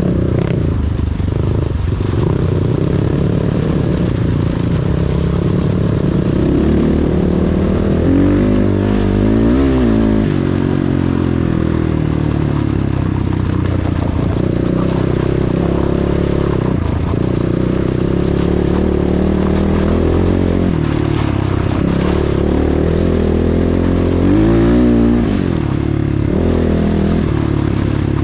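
KEWS K16 PRO enduro motorcycle engine running under way on a new bike still being run in, its pitch rising and falling as the throttle is worked, with two clear rev swells about eight seconds in and again near the end.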